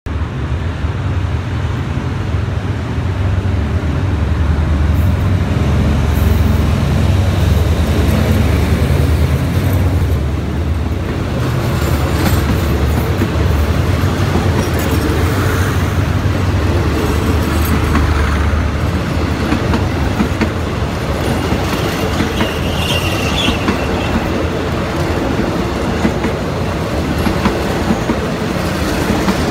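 Hitachi diesel-electric locomotive passing with a low engine drone for about the first ten seconds. Its passenger carriages then roll by with steady wheel noise, clicking over the rail joints, and a brief high wheel squeal a little after twenty seconds.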